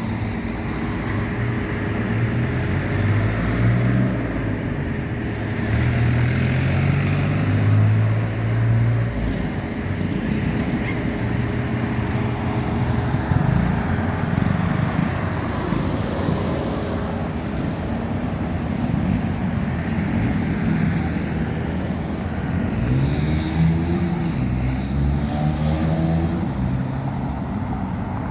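A car is being driven: steady road noise under an engine whose pitch steps up and down, with one rising rev about 23 seconds in.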